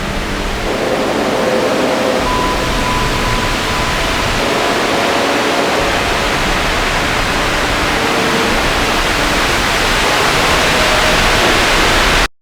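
Steady loud hiss-like noise with faint held tones underneath; it grows slightly louder and cuts off suddenly near the end.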